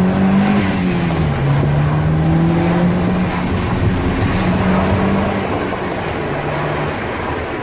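Audi A3's 2.0-litre turbocharged four-cylinder accelerating hard: the revs drop with an upshift a little over a second in, then climb again through the next gear and ease off near the end.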